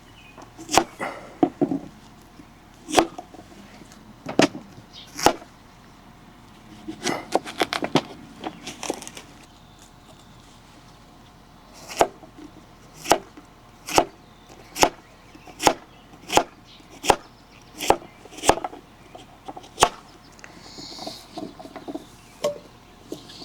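A kitchen knife chopping food on a cutting board: scattered cuts at first, then a steady run of about a dozen chops, roughly one every 0.7 seconds.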